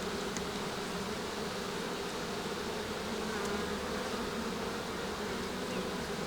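Honey bees of an opened hive buzzing, a steady, even hum.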